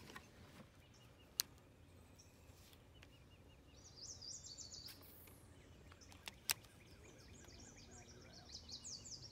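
Faint outdoor quiet with small birds chirping in quick high notes, once about four seconds in and again near the end. Two separate sharp clicks stand out, one early and one about six and a half seconds in.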